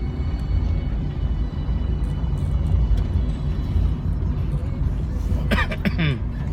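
A car driving, heard from inside the cabin: a steady low road and engine rumble with music playing faintly under it, and a short sliding-pitch sound near the end.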